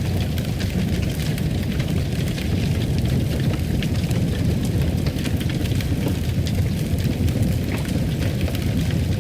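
Wood fire crackling in a fireplace: a steady low rumble of flames with many small, irregular crackles and pops.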